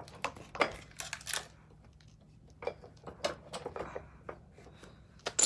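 Small metal motorcycle parts clinking and rattling as they are handled: irregular clanks in two clusters, with one sharp click near the end.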